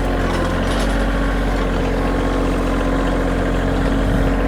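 Kioti tractor's diesel engine running steadily at a constant speed.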